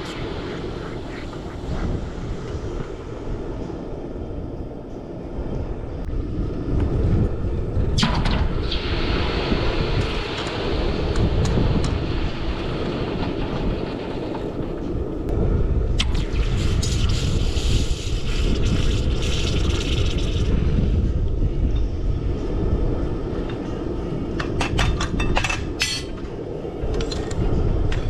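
Wind buffeting the microphone, a heavy low rumble throughout. Two stretches of higher rushing hiss come partway through, and a cluster of sharp clicks sounds near the end.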